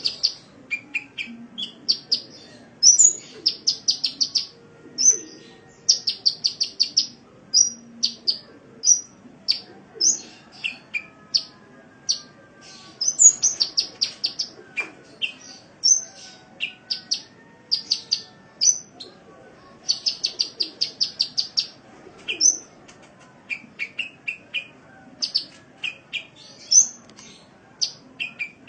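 Sunbird song: high, thin notes run into fast trills about a second long, alternating with sharp single chips and short rising and falling calls.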